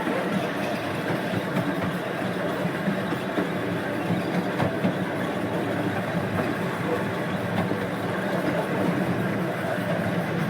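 A 12-inch gauge steam locomotive and its train running along the track, with steady wheel-on-rail noise and faint clicks.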